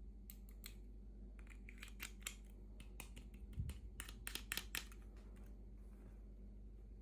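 Sharp little clicks and crackles of plastic toy packaging being opened, a quick irregular run of them that is busiest about four to five seconds in.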